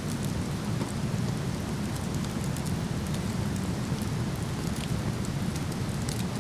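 Steady rush of a waterfall, with a few sharp crackles and pops from a campfire scattered over it.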